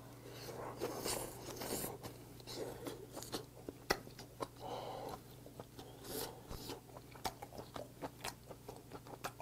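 A person chewing boiled hagfish close to a clip-on microphone: many small wet mouth clicks and smacks throughout as the chewy, springy flesh is worked.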